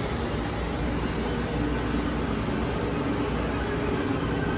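Amtrak Acela Express trainset rolling slowly past the platform: a steady rumble of wheels and running gear with a low hum.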